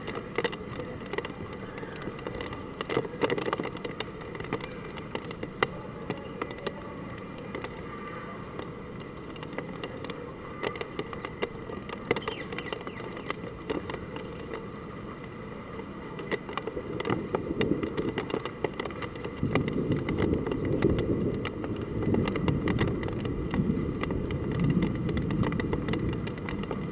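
Heavy typhoon rain with strong wind: a steady rush dotted with many sharp taps of drops striking hard surfaces. The rush grows louder about two-thirds of the way through.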